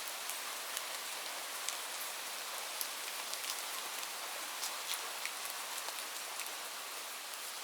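Light rain falling steadily, an even hiss with many small drops ticking sharply on a surface close by.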